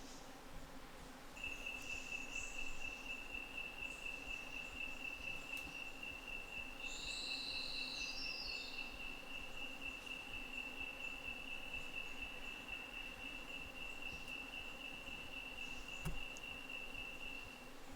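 Night insects calling: a steady, high-pitched cricket-like trill that starts about a second in and holds on one pitch. About seven seconds in, a brief series of higher notes steps downward in pitch, with faint chirps in the background.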